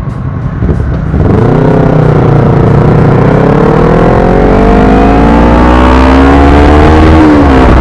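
Yamaha R15 motorcycle engine pulling away and accelerating, its pitch climbing steadily through one gear, then dropping sharply near the end as it shifts up. Heavy wind rumble on the microphone underneath.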